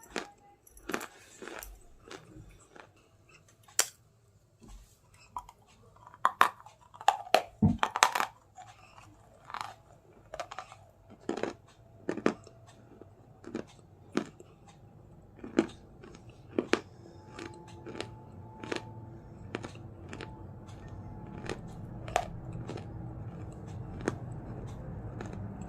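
Close-up crunching and chewing of white khari, a flaky puff-pastry biscuit, in many sharp, irregular crunches. A low hum builds underneath in the second half.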